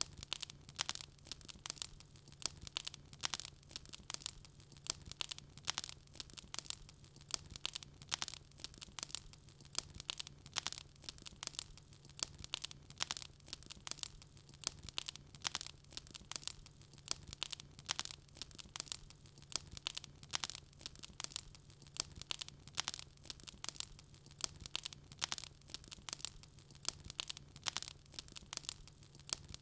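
Wood fire crackling in a fireplace: a constant, irregular run of sharp pops and snaps, several a second, over a faint steady low hum.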